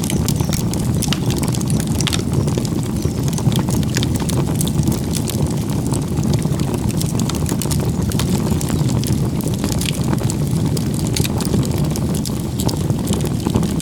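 Campfire burning: a steady low roar of flames with frequent sharp crackles and pops of burning wood, and a few faint bird chirps.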